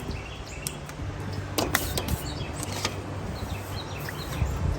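Light metallic clicks of parts and tools being handled, with faint bird chirps and a steady low hum behind them.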